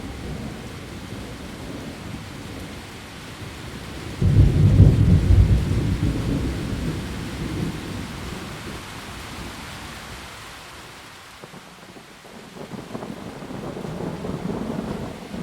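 Steady heavy rain falling on leaves. A loud, low rumble of thunder breaks about four seconds in and fades away over several seconds, and a softer rumble swells near the end.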